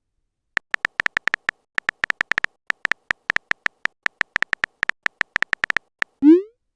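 A rapid, uneven run of short electronic beeps, all at the same high pitch, about eight a second, then a quick rising electronic glide near the end.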